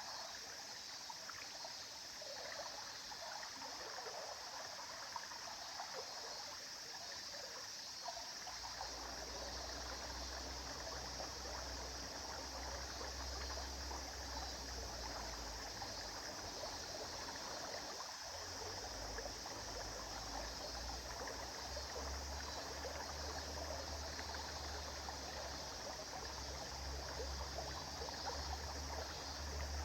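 River water flowing and trickling steadily. A low rumble joins the sound about a third of the way in.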